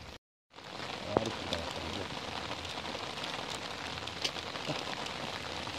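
Steady rain falling on pond water: an even hiss with scattered faint drop ticks. The sound drops out completely for a moment just after the start.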